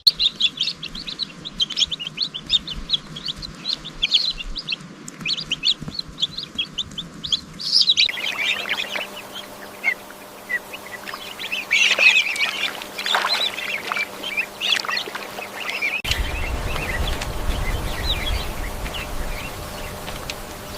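Bird chirps and calls, fast and high-pitched, across three spliced clips that change abruptly about eight and sixteen seconds in. A low rumble comes in with the last clip.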